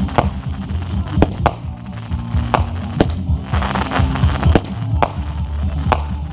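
Music playing, with sharp firework bangs going off at irregular intervals.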